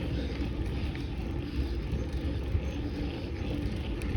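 Steady low rumble of a bicycle ride on a path: tyres rolling and wind buffeting the microphone.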